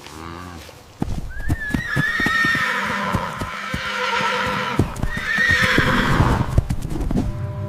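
Horse whinnying twice over a rapid clatter of hoofbeats that starts about a second in.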